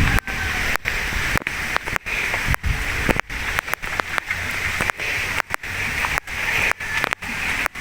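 Stream water flowing and splashing in a steady rush, broken by many brief dropouts.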